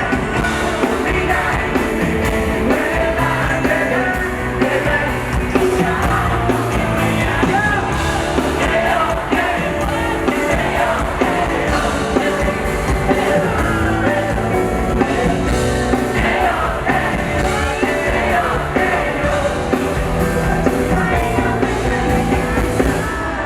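Live band performing a Thai pop-rock song, a singer's voice over loud amplified instruments.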